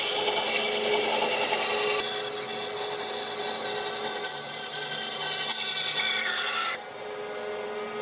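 A power tool abrading wood: dense scraping noise over a steady motor whine. The sound changes abruptly about two seconds in and drops sharply near seven seconds.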